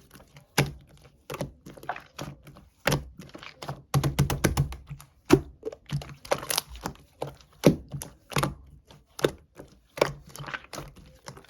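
An irregular series of sharp taps and knocks, a few a second, with a heavier thudding cluster about four seconds in.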